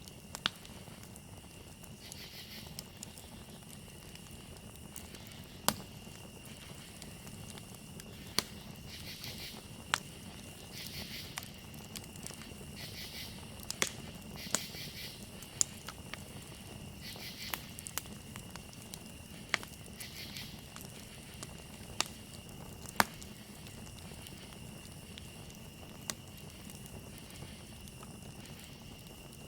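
Campfire crackling, with scattered sharp pops from the burning wood, over a steady high trill of crickets.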